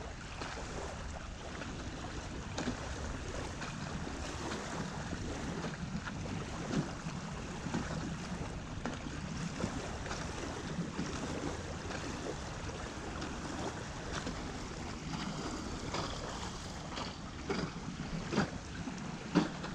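Canoe being paddled on open water: water moving around the hull and wind on the microphone, with a few sharp knocks, the loudest near the end.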